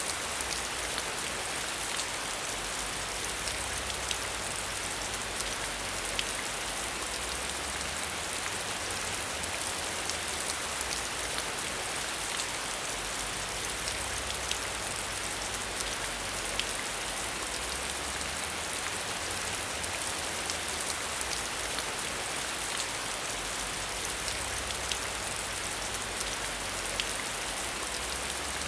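Steady rain falling on a surface, with individual drops ticking sharply here and there.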